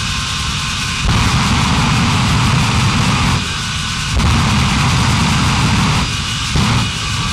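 Monster truck engine running loud, surging up in level about a second in, easing briefly, then surging again before dropping back near the end.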